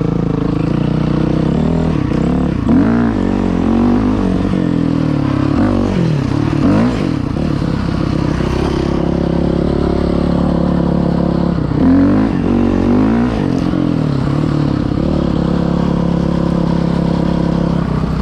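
Dirt bike engine running under way, its pitch rising and falling several times as the throttle is opened and closed.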